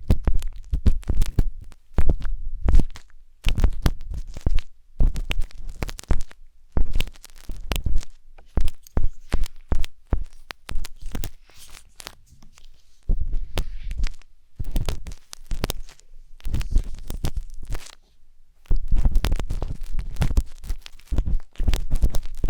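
Wooden tanghulu skewer scraping and poking inside the silicone ear canal of a 3Dio binaural microphone, in clusters of close crackly scratches with a low rumble under them, pausing briefly about twelve and eighteen seconds in.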